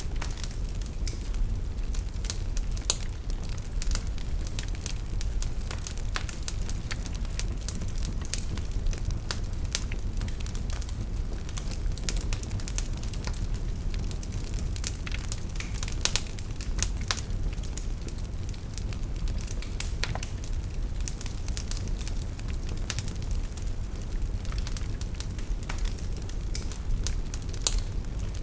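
Wood fire burning in a fireplace, a steady low rumble under frequent irregular crackles and pops.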